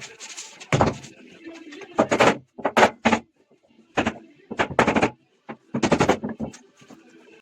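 About ten sharp knocks in uneven pairs and groups, with short quiet gaps between them.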